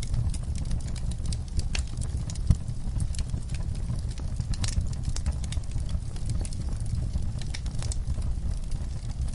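Wood fire of burning logs in a fireplace, crackling with frequent irregular sharp pops over a low rumble of flames. One pop about two and a half seconds in is louder than the rest.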